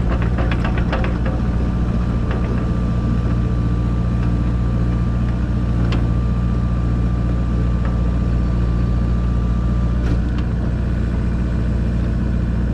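Diesel engine of a Kubota KX057-4 compact excavator running steadily, with a thin steady whine from about a second in until about ten seconds, and a few sharp knocks.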